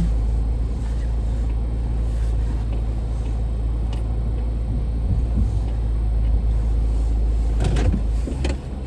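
Car engine running with a steady low rumble, heard from inside the car; the rumble eases near the end, with a couple of faint knocks just before.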